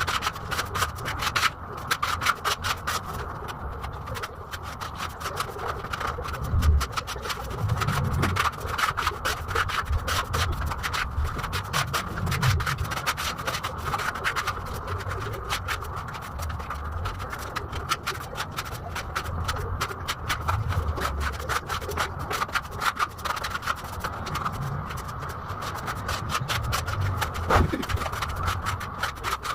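Putty knife scraping and spreading wall filler across a wall in continuous rasping strokes.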